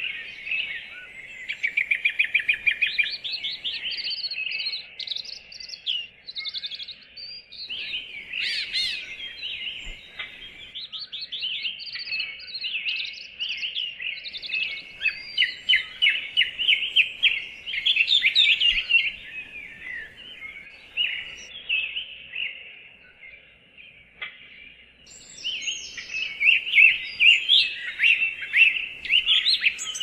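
Small birds chirping and twittering in fast, almost unbroken runs of high, quick notes, with a quieter lull about three quarters of the way through.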